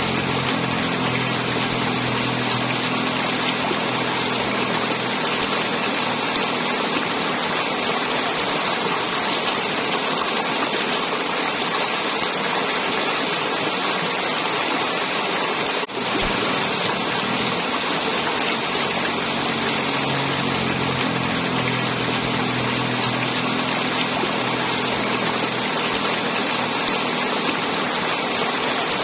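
River water flowing, a steady rushing and gurgling. About halfway through it briefly drops out for an instant.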